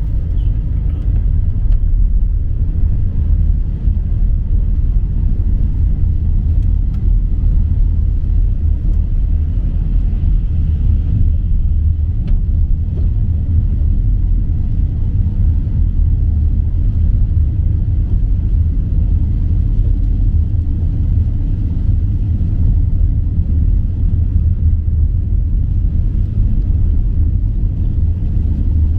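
Steady low rumble of a vehicle in motion, even in level throughout.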